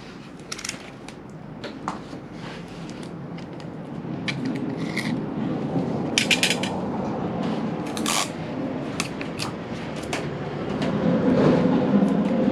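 Short clicks, taps and crinkling scratches of small stick-on wheel weights and tape being handled by hand. A low hum grows louder in the second half.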